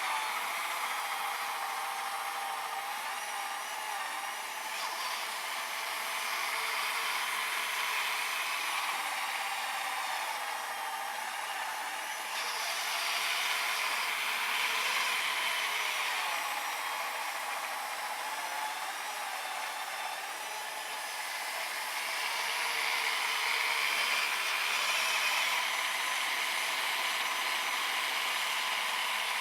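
Small brushed electric motor of an RC snowblower whining as it drives the auger through powder snow. The pitch wavers and the level swells and eases now and then as the load changes.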